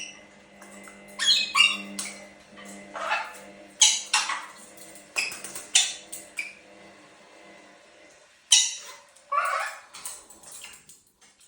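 Lorikeets calling in short screeches, about ten at irregular intervals, over a steady low hum.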